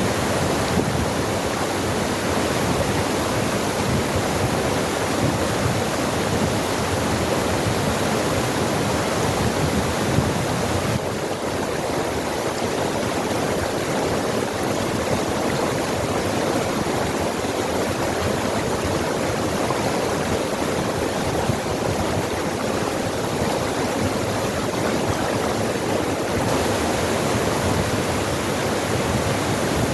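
Water rushing over rocks in a forest stream, a steady, even rush that barely changes, growing a little duller for a stretch in the middle.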